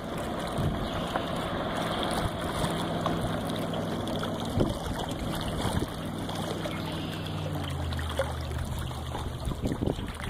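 1990 Rinker 236's 454 MerCruiser 7.4L V8 running with its Corsa Captain's Call exhaust closed, over water and wind noise. The engine's pitch drops about eight seconds in as it slows.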